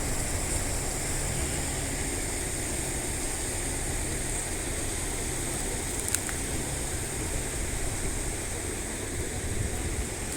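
Steady rush of running water from a rain-fed stream, with one sharp click about six seconds in.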